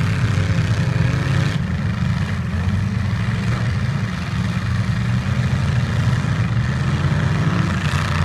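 Demolition derby truck engines running, loud and steady.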